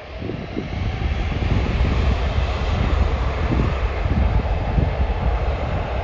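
Airbus airliner's jet engines spooling up to takeoff thrust: a loud, deep rumble with a rushing hiss swells over the first second, then holds steady as the takeoff begins.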